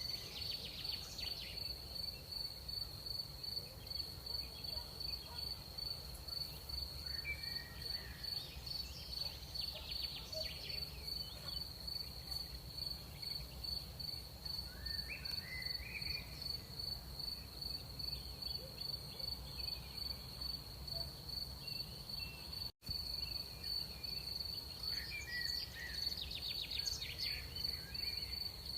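Crickets chirping in a steady, rapidly pulsing high trill, with short scattered chirps from other night creatures every few seconds and a low rumble underneath. The sound cuts out for an instant about two-thirds of the way through.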